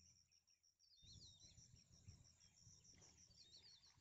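Faint insect chirping in a fast, even pulse, with a short high bird call about a second in and again near the end, over a low rumble of background noise.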